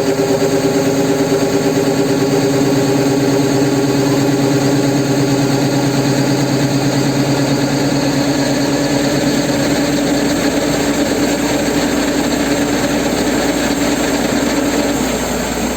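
Engine of a rice-harvesting machine running steadily at a constant pitch, dropping slightly in pitch near the end.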